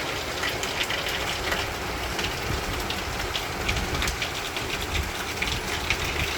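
Steady rain falling, with many separate drops ticking on surfaces over a low rumble.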